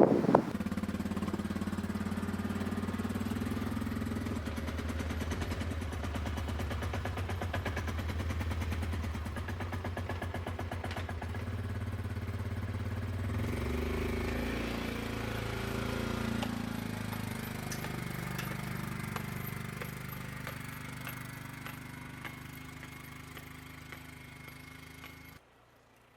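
An ATV engine running steadily, its pitch shifting for a few seconds around the middle, then slowly fading away.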